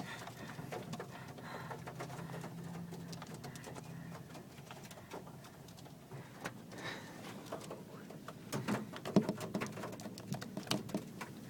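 Birds on and around a car, heard from inside it: a low steady hum, then a run of sharp taps and pecks on the car body near the end.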